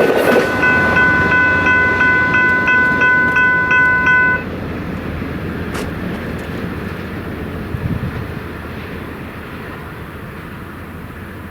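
The last cars of Amtrak's Southwest Chief rush past over the crossing and fade away, while the crossing's General Signals type 3 electronic bell rings in rapid, even strokes. The bell cuts off suddenly about four seconds in as the crossing clears.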